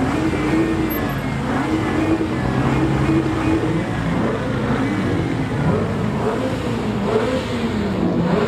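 Performance car engines revving and accelerating, their pitch rising and falling over and over, with a long falling note near the end as one car moves off.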